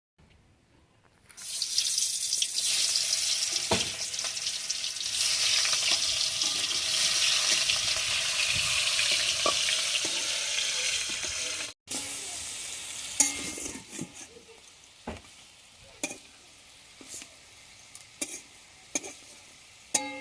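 Food frying in hot oil in a cooking pan: a loud, steady sizzle that starts a second or so in and stops abruptly at a cut about halfway through. After that comes a much quieter sizzle, with scattered sharp clicks and knocks of a utensil against the pan as it is stirred.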